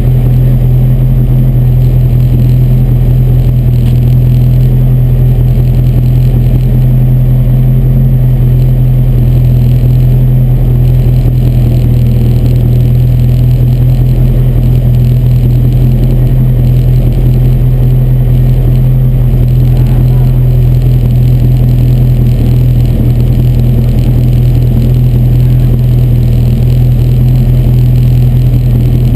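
A race car's engine idling steadily, heard from inside its stripped, roll-caged cockpit: a loud, constant low drone that does not change pitch.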